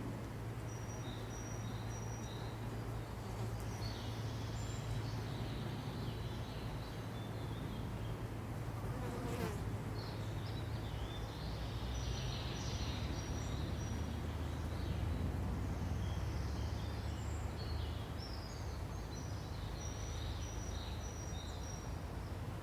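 Forest ambience: a steady low buzz, with short high bird chirps and trills coming and going. There is one brief sharp sound about nine seconds in.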